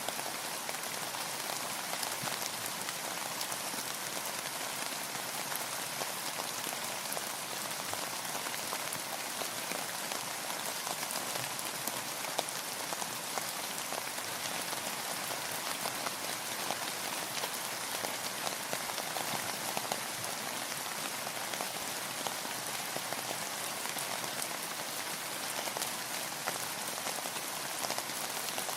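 Steady rainfall, with many small drop impacts pattering on a surface over a constant hiss.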